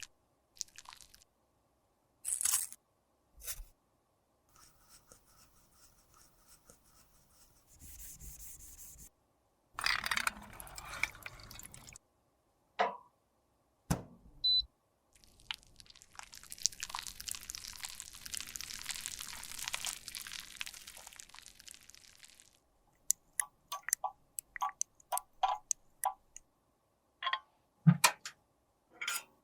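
Close-up handling of makeup and small tools: separate taps and clicks, a long stretch of steady scraping or rubbing in the middle, then a quick run of light clicks.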